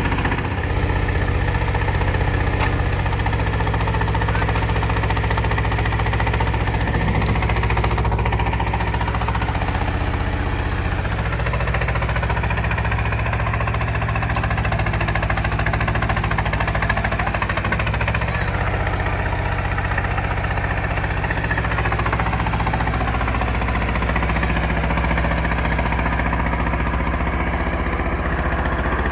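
Detroit Diesel 6V92TA two-stroke V6 diesel engine of an FTF logging truck running steadily at a constant speed.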